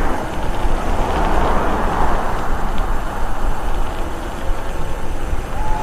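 Wind buffeting the microphone, a steady loud rumble with a hiss above it.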